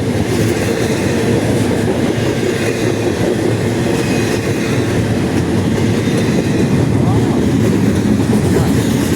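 Norfolk Southern freight train's cars rolling past close by, a loud steady rumble of steel wheels on the rails.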